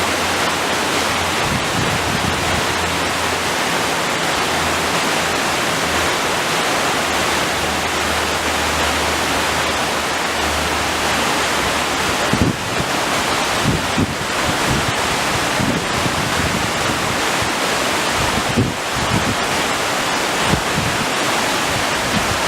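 Steady rushing roar of a broad waterfall sliding down a sloping rock face. In the second half, irregular low bumps of wind hit the microphone.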